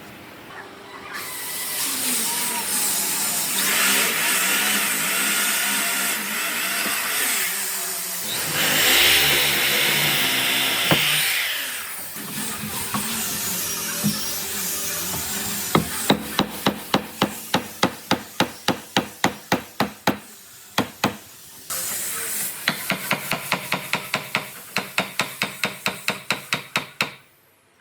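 Woodworking noise. For the first half a tool or machine runs with a steady noise that is louder for a few seconds in the middle. It is followed by two runs of quick, regular blows on wood, about three a second, like hammering.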